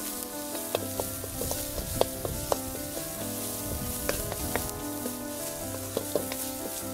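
Chopped snail meat sizzling as it fries in a wok, stirred with a wooden spatula that knocks and scrapes against the pan every second or so, with one louder knock about two seconds in. Background music with held tones plays underneath.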